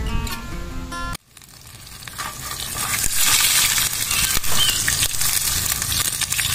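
A hot dog sizzling in oil in a small nonstick pan. The sizzle comes in about a second in, swells over the next two seconds and then holds steady. Before it, acoustic guitar music plays briefly and cuts off.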